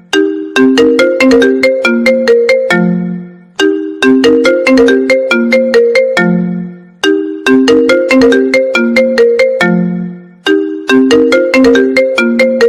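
iPhone 13 Pro ringtone playing: a short melody of quick notes stepping down to a low, longer note, looping about every three and a half seconds.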